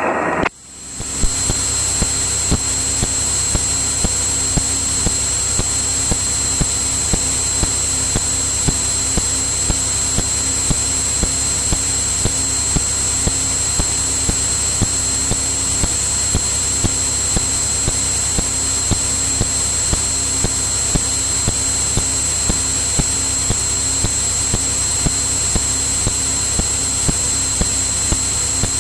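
Steady engine and propeller drone of a Cirrus single-engine piston airplane in cruise, heard inside the cabin through the intercom feed, with a steady high-pitched whine and regular faint ticks a little more than once a second. It drops out briefly at the start after a radio call and comes back within about a second.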